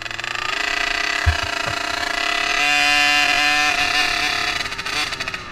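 Small dirt bike engine running at a fairly steady speed, easing off slightly near the end.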